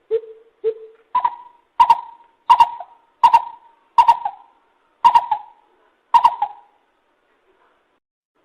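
Lesser coucal calling: a series of nine notes, two lower ones first, then seven higher, louder ones that space out toward the end.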